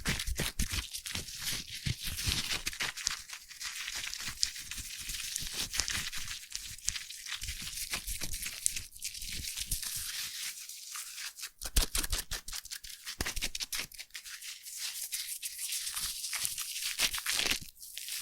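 Close-miked foam fizzing and crackling, a dense stream of tiny bubble pops. A few louder handling knocks come through, the clearest about twelve seconds in.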